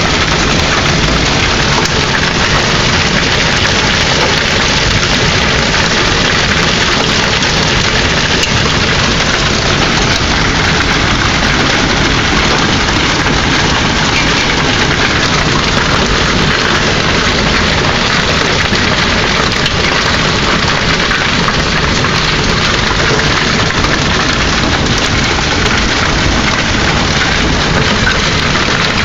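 Hail pelting down hard: a dense, steady clatter of many hailstones striking surfaces, with no let-up.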